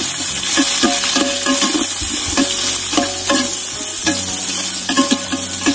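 Sliced onions sizzling in hot oil in a large metal pot while a metal slotted spoon stirs them, scraping and clinking against the pot in quick, repeated strokes.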